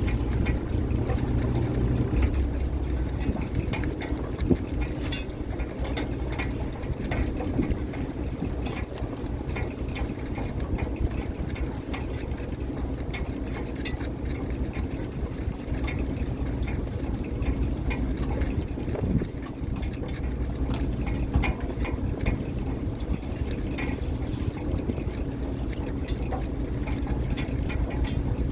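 Fishing boat's engine running steadily, with scattered knocks and clatter on deck and some water sounds.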